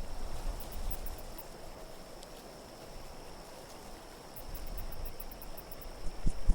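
Low, steady wind noise, with two brief runs of faint high tinkling. Sharp knocks start just before the end.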